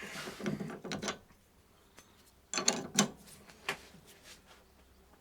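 Spanners working the top nut of a Lada Kalina strut: a 24 mm spanner turns it while a 17 mm spanner holds the rod. It gives metallic scraping and clicking in short bursts, the loudest a cluster of clicks about two and a half to three seconds in.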